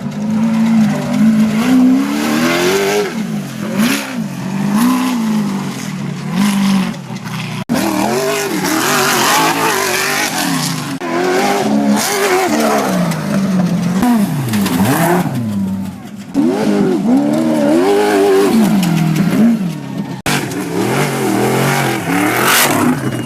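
Off-road race trucks running hard past the spot, engines revving up and falling back again and again as they go through the gears. The sound breaks off abruptly a few times and starts again.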